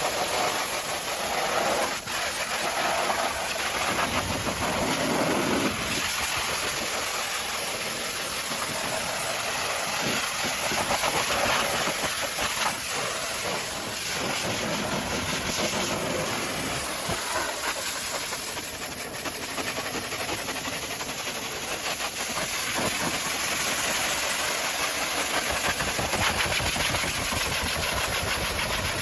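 Pressure washer spraying a steady high-pressure water jet, with the washer's motor running.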